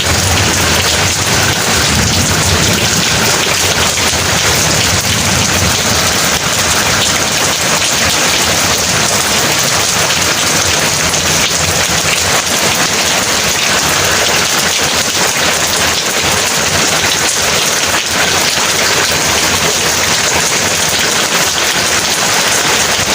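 Heavy rain pouring steadily, a dense hiss with no breaks. A low thunder rumble under it during the first few seconds fades away.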